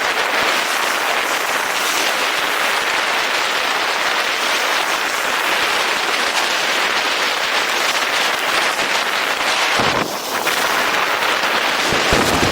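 Steady rush of a snowboard sliding and scraping over hard, groomed snow, mixed with strong wind on the microphone. About ten seconds in it dips briefly, then gusty low buffeting comes in.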